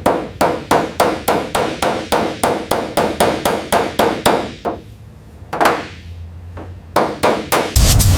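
Rapid hammer blows, about five a second, stop a little past halfway. A few more strikes follow after a short pause. Near the end a loud steady hiss begins.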